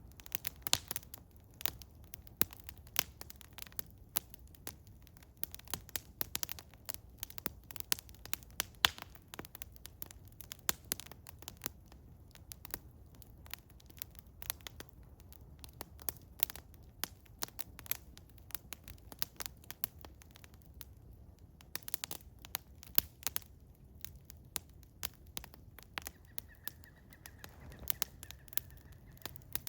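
Eastern hemlock wood fire crackling, with many irregular sharp pops and snaps over a low steady rumble of burning.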